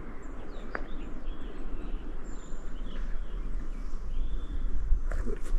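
Small birds chirping, short rising and falling calls, over a steady outdoor background hiss with a low rumble. Footsteps on the hiking trail begin near the end.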